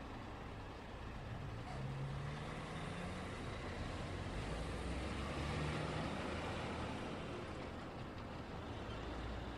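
Road traffic: a steady wash of vehicles passing, with a heavier engine, typical of a truck or bus, growing louder in the middle and fading again.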